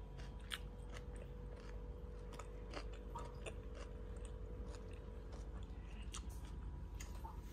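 Faint chewing with scattered small crunches and clicks, over a low steady hum.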